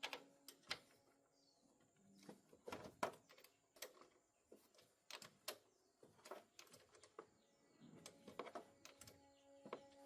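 Faint, irregular clicks and light taps, a few a second at most, with quiet pauses between.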